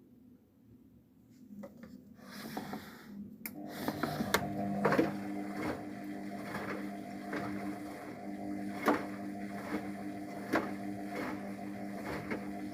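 Luxor WM 1042 washing machine's motor starting up and turning the drum, a steady hum with irregular clicks and knocks on top, after a few seconds of near quiet.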